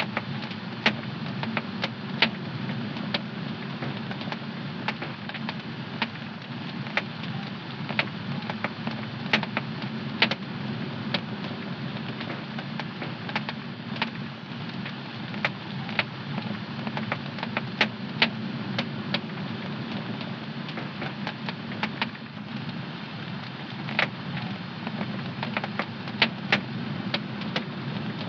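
Wood fire burning in a home fireplace: a steady low roar of the flames with frequent, irregular sharp crackles and pops.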